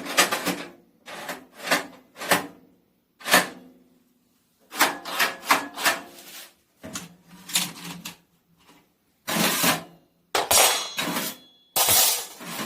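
Metal wood-burning stove being handled and opened up: a run of short knocks, rattles and scrapes of its door and loose parts, some with a low ringing, and a few louder metallic clangs near the end.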